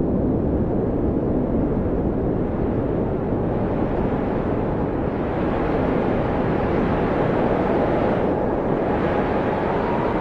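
Blizzard wind blowing steadily, with a faint whistling howl and gusts that grow brighter in the second half.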